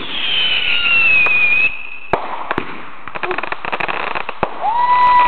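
Whistling fireworks: a shrill, falling whistle that stops abruptly under two seconds in, then a sharp bang followed by dense crackling. Near the end another whistle slides up and holds steady.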